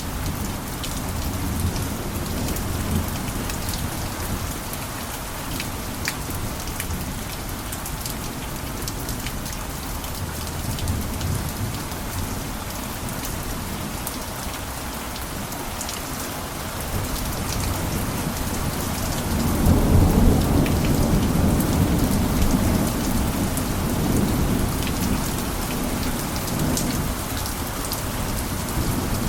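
Steady rain with scattered sharp drop ticks, and a low rumble of thunder that rolls in about two-thirds of the way through and slowly fades.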